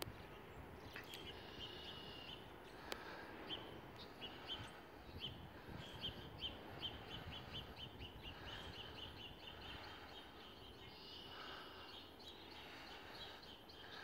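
Small songbirds chirping faintly over quiet outdoor ambience, with a quick run of chirps in the middle.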